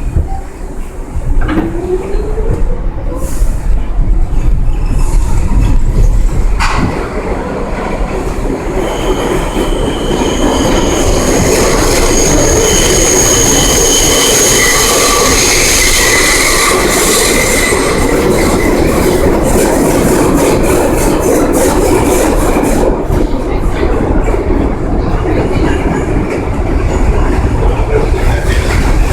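New York City subway train heard from inside the car, running loud through the tunnel. A rising motor whine comes about two seconds in as it picks up speed. High-pitched wheel squeal runs through the middle, and rapid clicking over the rail joints fills the last part.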